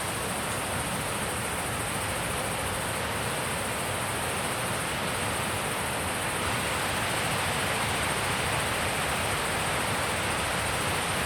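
Wind blowing steadily, growing a little stronger about halfway through.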